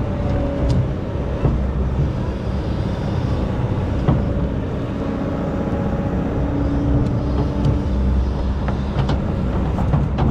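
Excavator's diesel engine running steadily under load, with a few sharp knocks and clinks scattered through it.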